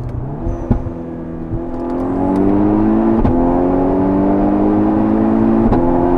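Turbocharged VW Golf 6 R four-cylinder accelerating hard under full boost, heard from the cabin: the engine note rises steadily in pitch and grows louder from about two seconds in, with two short clicks, one about three seconds in and one near the end.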